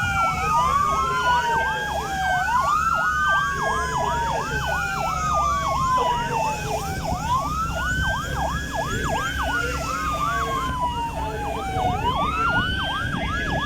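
Two emergency vehicle sirens sounding together over a low engine rumble: one a slow wail that climbs, holds and falls every few seconds, the other a rapid yelp.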